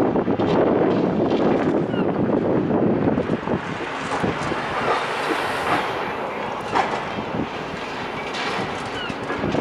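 Building demolition: a dense rumble of crunching and clattering rubble with scattered knocks, heaviest for the first three seconds and then easing.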